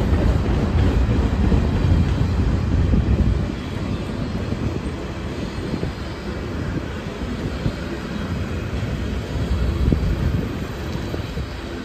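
Covered hopper cars of a freight train rolling past, a steady low rumble of steel wheels on rail. It is louder for the first few seconds, eases off, and swells again about ten seconds in.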